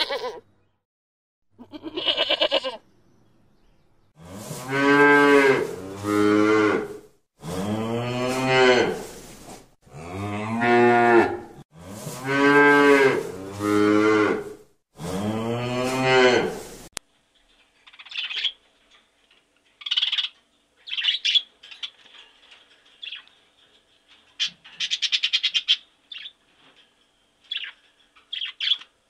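Cattle mooing: a series of about seven long, deep calls, some in close pairs, that rise and fall in pitch. In the second half the moos give way to short, high chirps, quieter than the moos.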